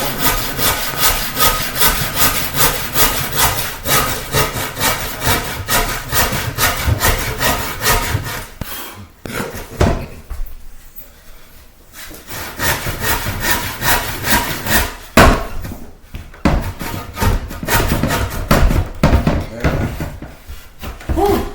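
Handsaw cutting through wood by hand, with steady back-and-forth strokes about two a second. The sawing stops for a few seconds midway, then resumes less evenly.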